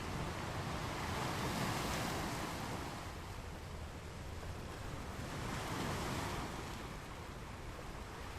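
Ocean waves washing onto a beach: a steady hiss of surf that swells twice, about a second in and again around six seconds, as waves break.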